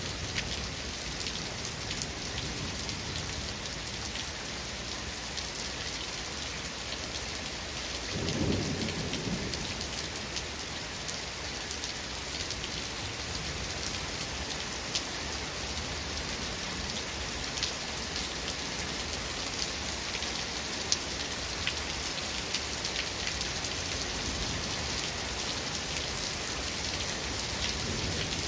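Steady heavy rain pattering on a surface, with individual drops ticking, and a short low rumble of thunder about eight seconds in.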